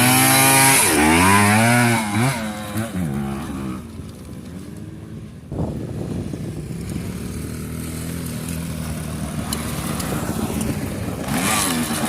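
Small dirt bike engine revving up and down, fading away after about two seconds. About five and a half seconds in, a steadier engine sound starts suddenly and runs on, growing slightly louder near the end.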